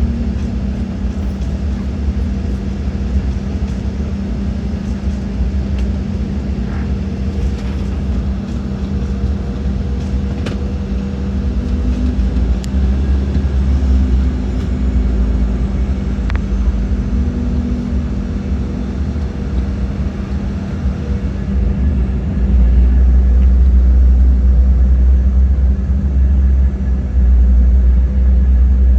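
Steady rumble of jet engines and airflow heard inside the cabin of an Embraer E-Jet airliner, with a steady hum under it. The low rumble grows clearly louder a little over twenty seconds in.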